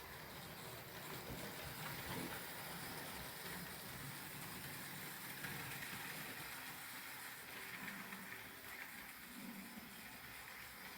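Trix HO-scale model locomotive running on its track: the small electric motor whirring and the wheels rolling on the rails, faint and steady, swelling a little around the middle.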